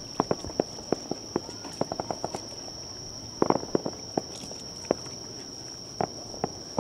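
Aerial fireworks crackling: rapid, irregular sharp pops from bursting stars, thick in the first couple of seconds, another cluster about halfway, then only scattered cracks. A steady high whine runs underneath.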